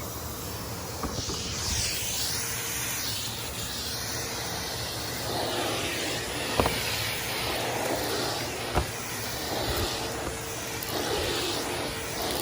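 Numatic Henry cylinder vacuum cleaner running, its suction hiss swelling and falling as the nozzle moves over the debris, with a few sharp clicks of bits rattling up the hose.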